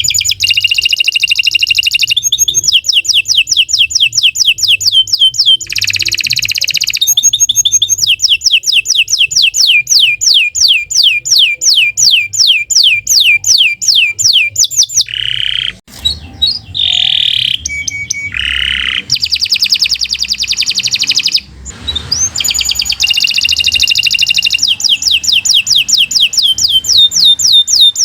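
Domestic canary singing a long, continuous song: fast trills of rapidly repeated sweeping notes, broken by buzzy rolls and a few lower slurred notes part-way through, then the trills pick up again.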